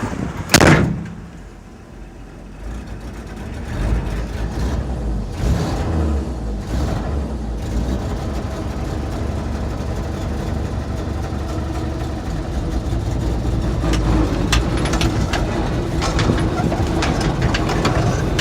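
1964 Chevrolet truck's 250 straight-six engine with a Rochester single-barrel carburetor pulling away in first gear, a steady low rumble that builds after a few seconds and holds. A loud clunk comes about half a second in. The engine runs on choke and is not running right, which the owner puts down to a carburetor needing a full rebuild.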